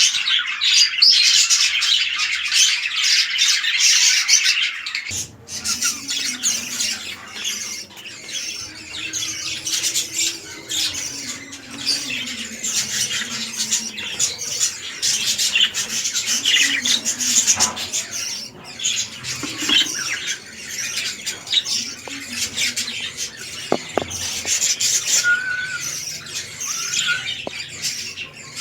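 Budgerigars chattering and squawking continuously, a dense stream of rapid, scratchy high calls.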